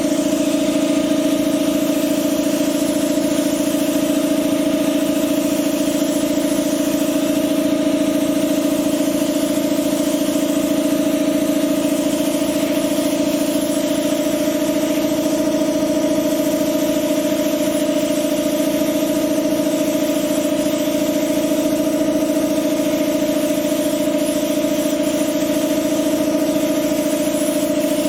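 A steady machine hum with a constant low drone and a fainter hiss, unchanging throughout.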